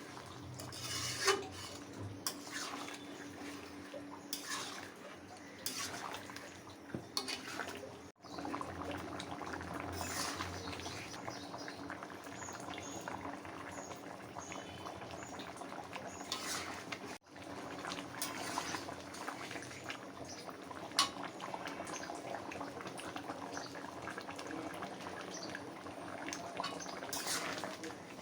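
Cooking sounds of a chicken curry in a pan: a utensil repeatedly clinking and scraping against the pan over a steady bubbling sizzle, with two abrupt breaks where the footage is cut.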